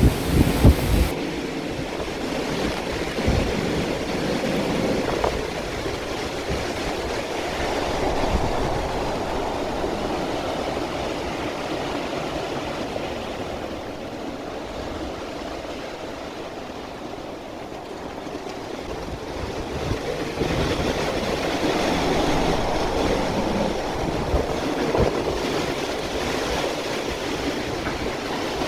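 Typhoon wind and driving rain, a steady rushing that swells in gusts and eases off in between, with the wind buffeting the microphone in the first second.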